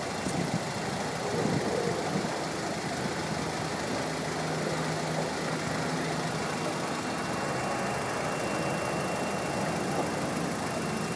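A 1996 Acura Integra RS's four-cylinder engine idling steadily, heard from close by under the open hood; the engine has about 200,000 miles on it.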